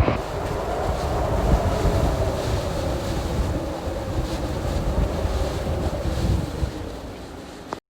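Typhoon eyewall wind gusting hard against the microphone: a dense rushing noise with heavy low buffeting and a faint whistling tone running through it. It eases a little near the end and then cuts off abruptly.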